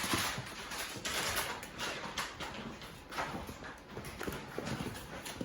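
Labrador puppies eating kibble from maze slow-feeder bowls: an irregular clatter of kibble rattling and bowls knocking and scraping as they work at the food.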